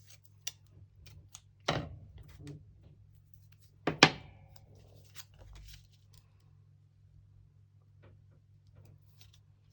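Tabletop crafting handling sounds: light clicks and paper rustles as a laminated sheet is worked with double-sided tape, with two sharp knocks, one near two seconds in and a louder one about four seconds in. A faint steady low hum runs underneath.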